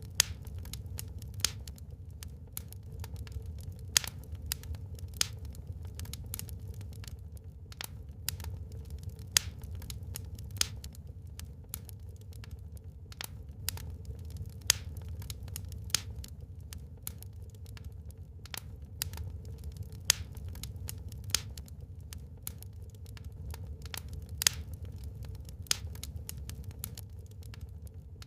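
Wood fire burning in a fireplace, with sharp, irregular crackles and pops several times a second over a steady low rumble.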